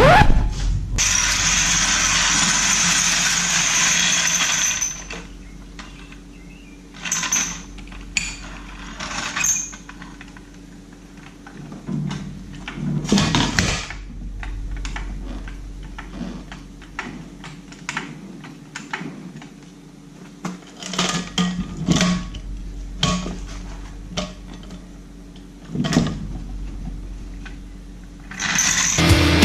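Workshop handling noise: a steady hiss for the first five seconds that cuts off suddenly, then scattered metallic knocks and clanks at irregular intervals.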